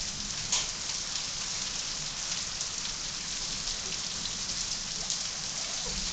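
Heavy rain pouring down: a steady hiss with many small drop splatters ticking through it, one slightly louder splat about half a second in.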